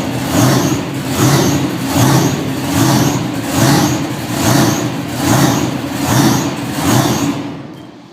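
Monster truck engine revving loudly in regular pulses, about once a second, fading out near the end.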